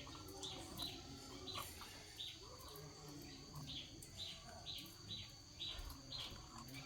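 Faint bird chirping: a series of short calls repeating about twice a second.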